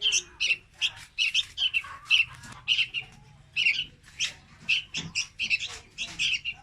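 Juvenile red-whiskered bulbul calling: short chirps repeated two to three times a second.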